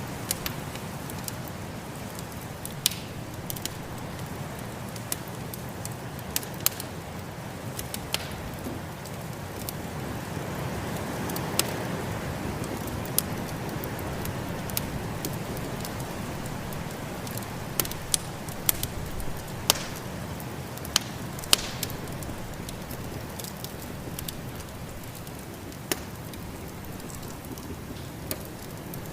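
Wood fire crackling: sharp, irregular pops and snaps over a steady rushing noise of a winter storm, which swells a little in the middle.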